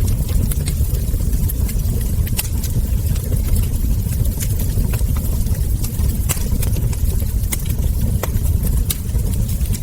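Wood fire crackling: irregular sharp pops and snaps from burning logs and embers over a steady low rumble.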